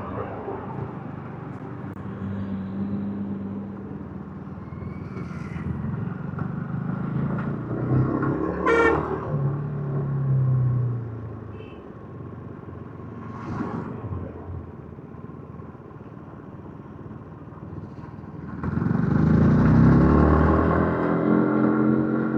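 Yamaha MT-15's single-cylinder engine on its stock exhaust, running as the bike is ridden. A horn toots briefly about nine seconds in, the engine note falls soon after, and near the end the engine revs up louder as the bike accelerates.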